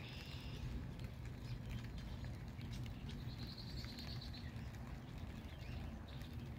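Quiet outdoor garden ambience: a steady low rumble with faint scattered patter, and a small bird chirping briefly at the start and again around three to four seconds in.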